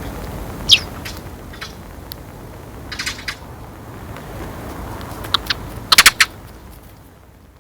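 A sparrow chirping in short, sharp notes, scattered at first, with the loudest quick run of three or four chirps about six seconds in, over a low background rumble that fades near the end.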